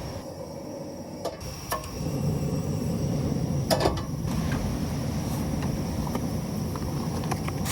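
Gas camp stove burners being lit: a few sharp clicks from the knobs or igniter, then a steady low flame roar that sets in about two seconds in, with more clicks near the middle as a second burner is lit.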